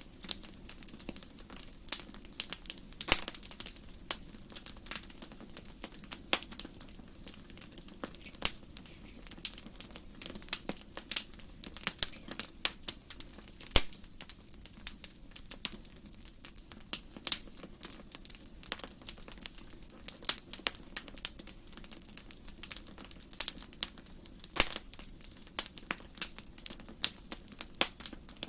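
Fire burning in a fireplace, crackling with irregular sharp pops and snaps, a few of them much louder than the rest, over a faint steady low rumble.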